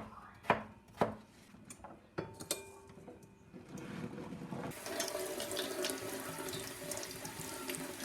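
A few clicks and knocks of kitchen handling, then a kitchen tap is turned on about halfway through and water runs steadily into the sink.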